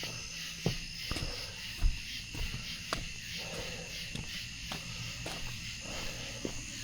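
Steady high-pitched chorus of night insects such as crickets, with a person's footsteps knocking irregularly underneath; the loudest step-thump comes about two seconds in.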